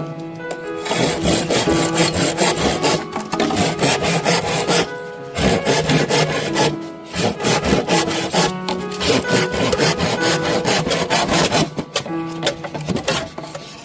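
Rapid, repeated rasping strokes over background music.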